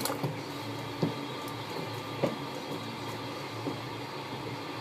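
A machine running with a steady hum, and a few light clicks and knocks over it at irregular intervals.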